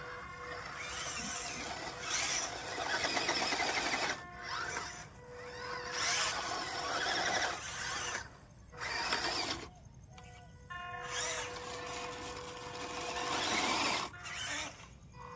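Small electric motor of a toy RC car whirring in repeated bursts of one to three seconds, its pitch wavering up and down as it speeds up and slows.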